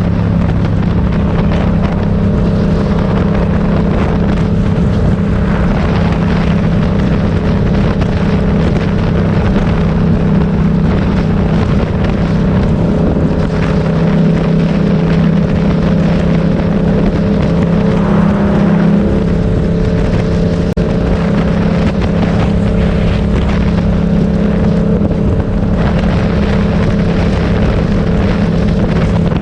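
Motorcycle engine running at a steady speed, with wind noise on the microphone.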